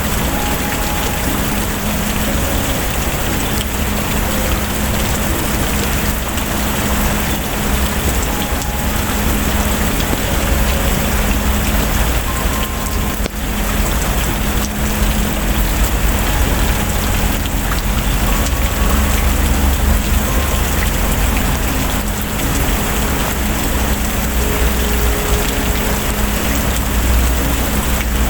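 Steady heavy rain, with a constant low rumble underneath.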